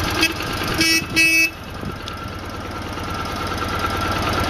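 1969 BMW R60US's horn sounding in short beeps, a brief blip near the start and two beeps about a second in, over the 600 cc boxer twin idling.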